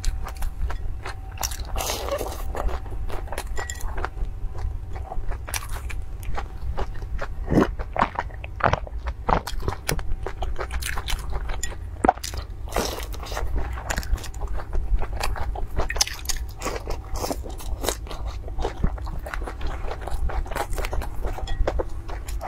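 Biting and chewing of youtiao (Chinese fried dough sticks) dipped in a milky drink, picked up close by a clip-on microphone, with a dense run of small crunches and crackles throughout.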